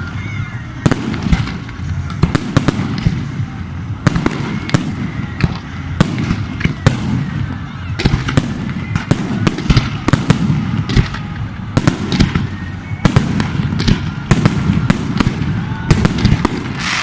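Aerial fireworks display going off in a dense barrage: many sharp bangs, several a second, over steady crackling from the bursting shells.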